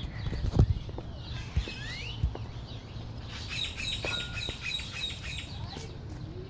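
A small bird chirping a quick run of repeated high notes, about four or five a second, with a few low thumps in the first couple of seconds.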